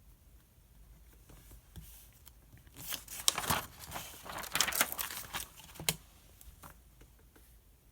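Paper pages being turned and handled, a cluster of crisp rustles and flicks from about three seconds in to about six seconds in.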